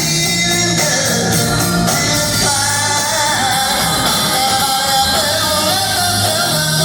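Live rock band playing, with bass, guitars and drums under lead and backing vocals that sing long held notes. Recorded from the audience in a theatre.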